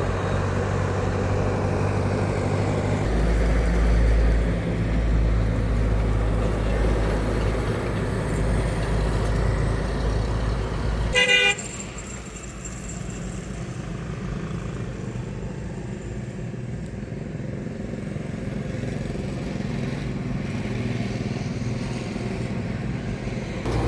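Truck engine running with a heavy low rumble, then a short horn toot about halfway through, after which the sound drops suddenly to a quieter engine and traffic noise.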